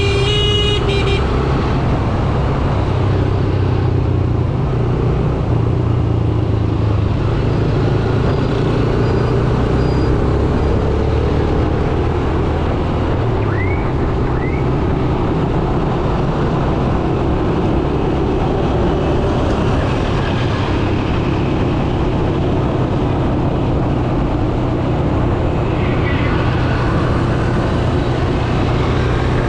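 Yamaha YBR 125G's single-cylinder four-stroke engine running steadily under way in dense traffic, with continuous road and traffic noise. A vehicle horn sounds at the start and stops about a second in.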